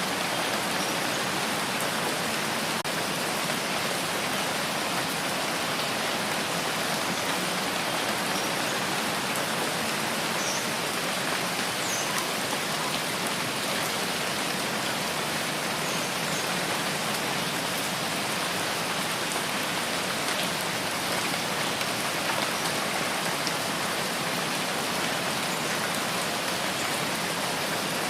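Steady rain falling, an even, unbroken hiss with no change in strength.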